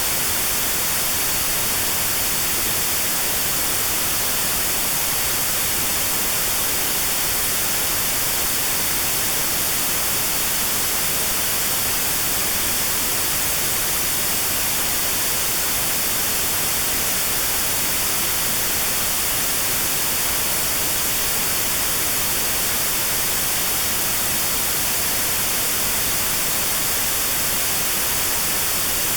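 Steady white-noise hiss with a narrow notch cut out around 4 kHz: notched sound therapy aimed at 4 kHz tinnitus.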